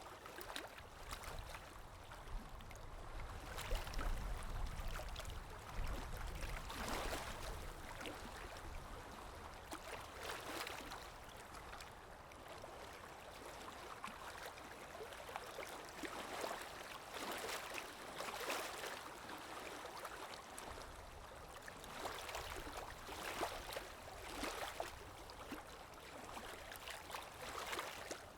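Paintbrush strokes on watercolour paper: soft, scratchy swishes at irregular intervals, one every second or few.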